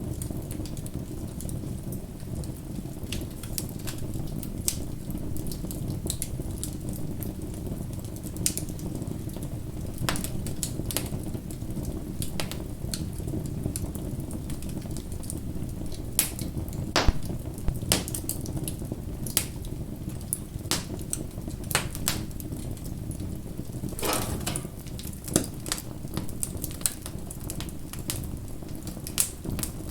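Wood fire burning, with irregular crackles and sharp pops over a steady low rush of flame; the loudest pops come about 17 and 25 seconds in.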